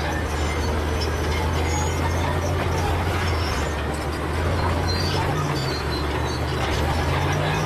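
Crawler bulldozer's diesel engine running under load, with short high squeaks from its steel tracks. The engine note changes about five seconds in and again near the end.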